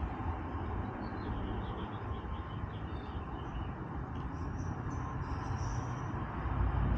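Steady low rumble of distant road traffic, swelling near the end, with faint high chirps.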